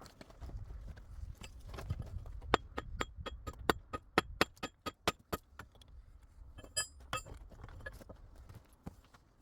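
A run of sharp, hard strikes with a slight ringing, about four a second for about three seconds, then a brief cluster of clinks near the end.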